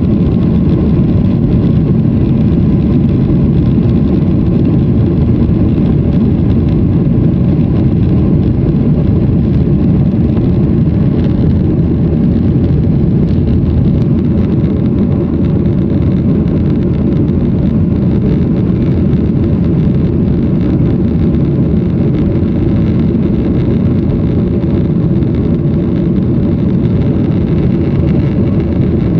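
Airliner engines and airflow heard from inside the passenger cabin: a loud, steady drone with a few faint steady tones above it.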